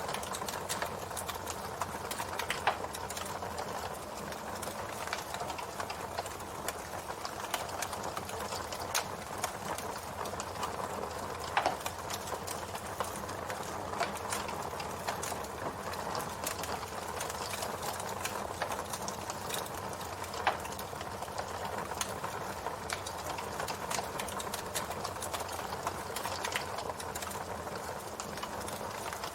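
Wood campfire burning, a steady hiss with frequent small crackles and a few louder, sharper pops.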